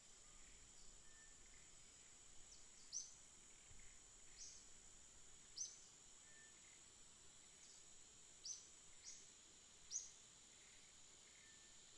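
Small birds chirping faintly: single short, sharp high chirps every second or so, about eight in all, over a steady high-pitched whine.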